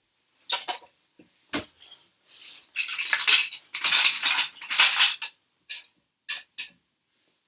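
Plastic Duplo train-track pieces and bricks clattering as they are handled and knocked together: a couple of single knocks, then a few seconds of dense rattling, as if rummaged through in a pile, then scattered clicks.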